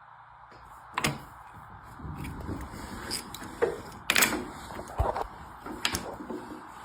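Handling sounds at a workbench: a few sharp metallic clicks and knocks, the loudest about a second in and around four seconds, with shuffling and rubbing between them.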